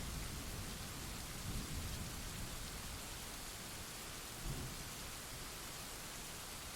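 Thunderstorm: steady hiss of rain with low thunder rumbling underneath, the rumble easing off after a couple of seconds, then one short low roll about four and a half seconds in.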